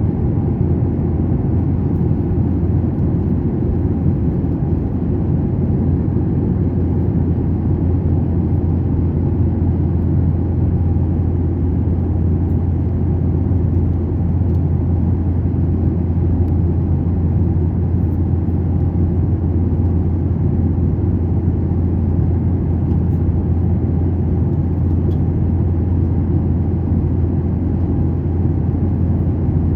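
Steady low rumble of an airliner cabin: engine noise heard from inside the plane, unchanging throughout.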